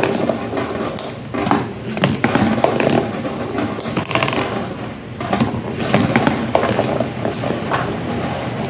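Marbles rolling down a DIY marble run: a steady rolling rumble broken by frequent sharp clicks and clacks as they drop and knock along the track.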